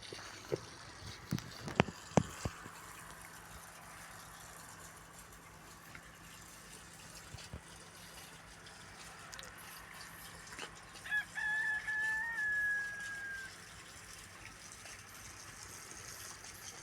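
A rooster crows once about eleven seconds in: a few short notes, then a long held note that falls slightly at the end. A few sharp clicks or knocks come in the first couple of seconds, the two loudest close together.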